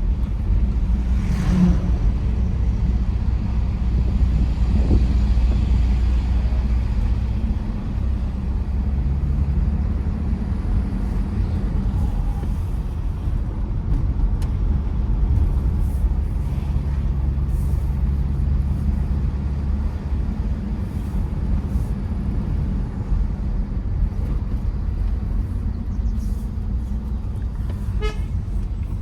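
Tata Safari Storme's diesel engine and tyre noise, a steady low rumble as the SUV drives along a hill road.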